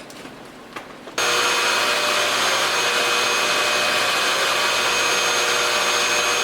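Shop vacuum switched on about a second in and running with a steady, loud motor noise, after a few small clicks of things being handled.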